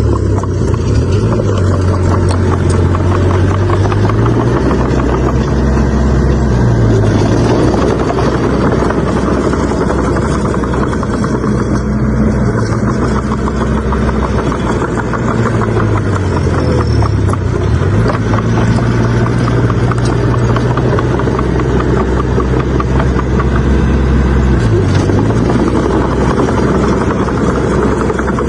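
Bulldozer's diesel engine running hard, its pitch dipping briefly and recovering about six times.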